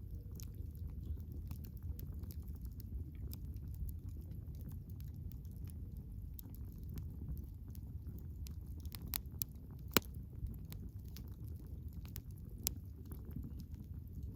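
Wood fire burning, a steady low rumble of the flames with irregular crackles and pops of burning firewood; the sharpest pop comes about ten seconds in.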